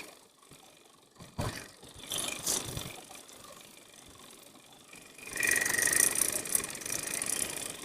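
A few separate knocks, then from about five seconds in a fishing reel's drag running steadily as line is pulled out, its drag set loose.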